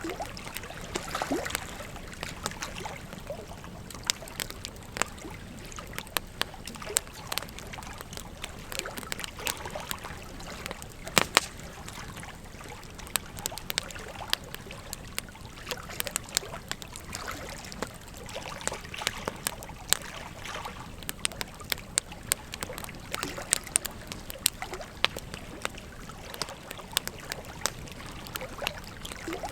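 Wood fire crackling with frequent irregular pops and snaps, over the steady rushing and trickling of a river. The loudest pops come about eleven seconds in.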